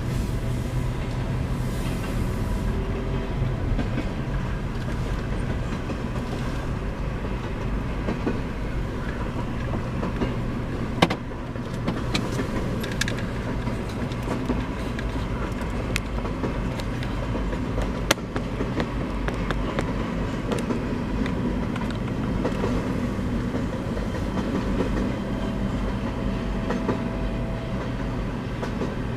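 CN freight train rolling past, its cars running steadily over the track, with two sharp bangs about eleven and eighteen seconds in.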